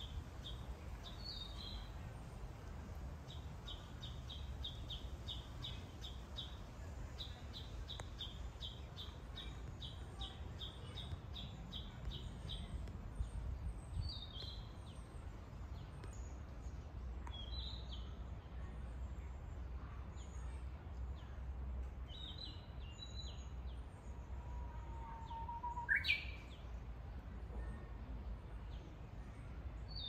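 Birds singing. Rapid runs of short, high chirping notes come through the first half, with scattered calls later. Near the end a Japanese bush warbler (uguisu) gives a long, low whistled note that breaks into a quick rising flourish, the loudest sound here. A steady low rumble lies underneath.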